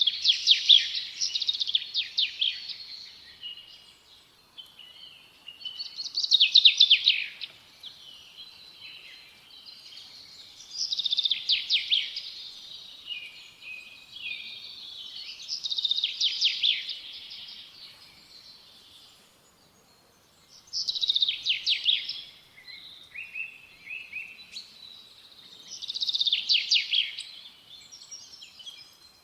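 A songbird singing in repeated high-pitched phrases of rapid trilled notes, each lasting two to three seconds and coming about every five seconds, with quieter pauses between.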